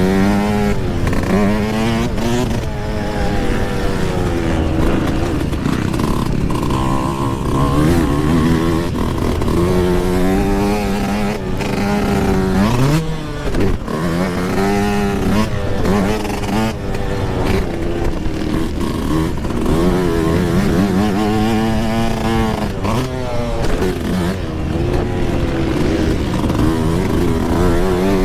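Yamaha YZ125 single-cylinder two-stroke dirt bike engine revving hard and dropping back over and over as it is ridden around a motocross track, with scattered knocks and clatter from the bike over the bumps.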